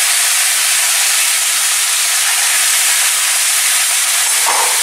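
Chicken pieces and quartered tomatoes sizzling steadily in hot mustard oil in a kadai.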